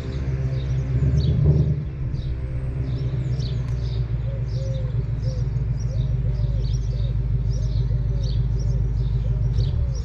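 Ford Mustang's engine idling with its exhaust set to the loudest mode, rising briefly in revs about a second and a half in and then settling back to a steady rumble, while birds chirp. The engine sound stops suddenly at the very end.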